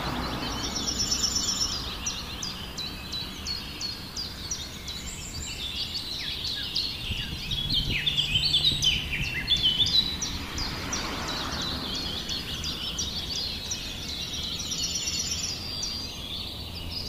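Birds chirping and calling, many short notes and falling whistles that are busiest in the middle, over steady outdoor background noise.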